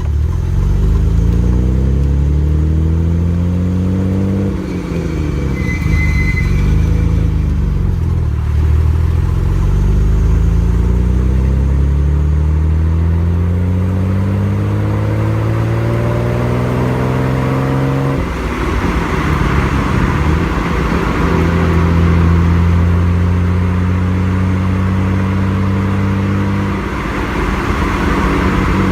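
Nissan Skyline GT-R R33's RB26 twin-turbo straight-six exhaust while driving. The revs climb and drop through several gear changes, then build in one long climb over about nine seconds and fall away abruptly, before the car runs on at steadier revs.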